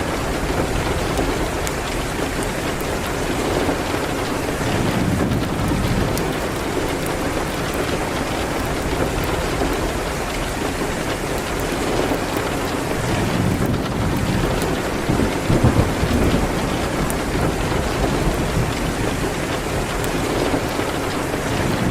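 Steady heavy rain, with low thunder rumbling up a few times: once about a quarter of the way in, and more strongly past the middle.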